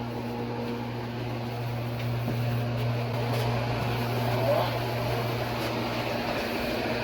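A steady low mechanical hum, with a fainter higher tone on top that drops out near the end.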